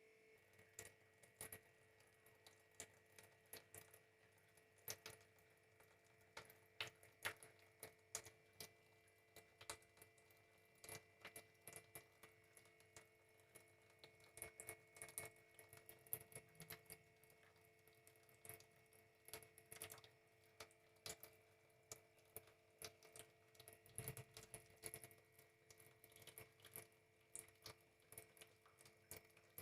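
Faint, irregular small clicks and taps, sometimes in quick runs of a few a second, from a small bird's beak tapping the water container as it drinks. A faint steady hum runs underneath.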